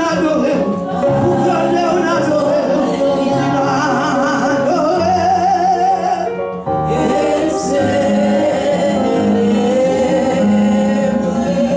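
Gospel singing with instrumental accompaniment, the voices holding wavering sustained notes, with a brief break about six and a half seconds in.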